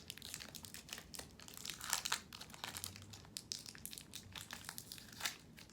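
Crinkly candy-bar wrapper being handled: a dense, irregular run of small crackles, with a few louder crinkles.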